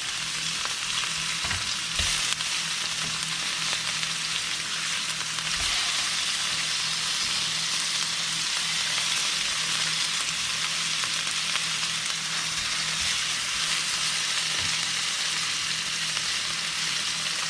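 Yellowfin tuna steaks sizzling steadily in hot olive oil in a frying pan, with a couple of light knocks about two seconds in and one more a few seconds later.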